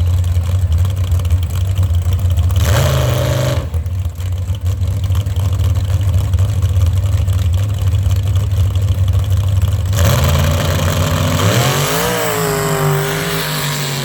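Mud truck engine running hard with a steady low drone. A short burst of revving comes about three seconds in, and the revs rise and fall over the last few seconds.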